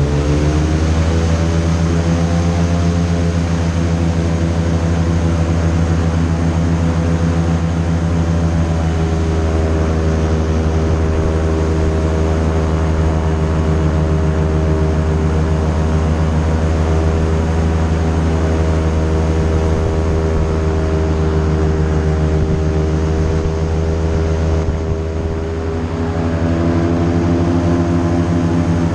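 Airboat engine and its aircraft-style propeller running at speed. The pitch climbs over the first couple of seconds, then holds steady, eases off briefly late on and picks up again near the end.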